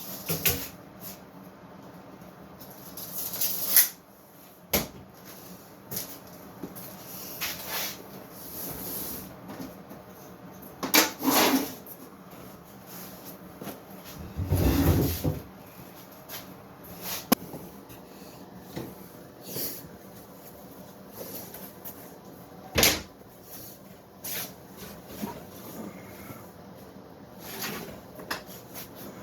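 Irregular knocks, clunks and scrapes of wooden pieces being handled and fitted, with a few longer scraping sounds and a sharp knock about three quarters of the way through.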